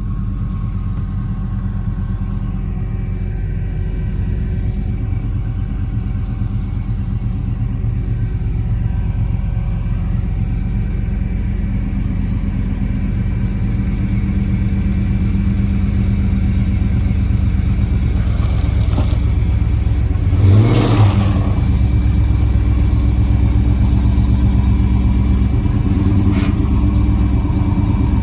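Dodge SRT 392's 6.4-litre HEMI V8 idling steadily, with one short rev about twenty seconds in.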